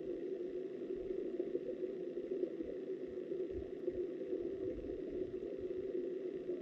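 Steady, muffled rush of river water heard by a camera held underwater, with a few faint low thumps.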